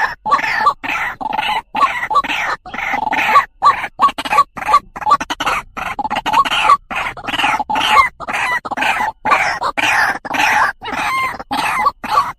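White-breasted waterhen (truwok) calling: a fast run of harsh "ruwak" notes, broken by short gaps about two or three times a second.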